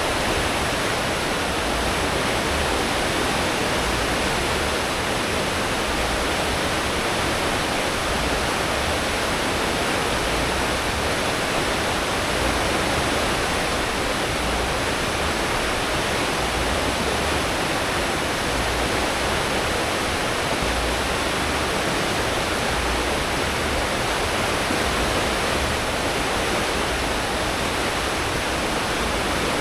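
Cruise ship's wake churning behind the stern at full speed: a steady rushing of white water over an uneven low rumble from the engines and propellers.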